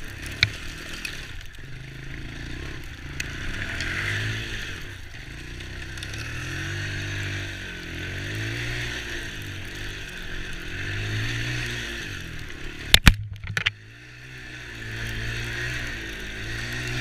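Small ATV engine revving up and down over and over as it is ridden. A quick cluster of sharp knocks about thirteen seconds in.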